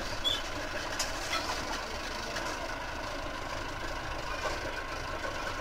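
Heavy diesel engine running steadily at idle, with a few short sharp clicks in the first second and a half.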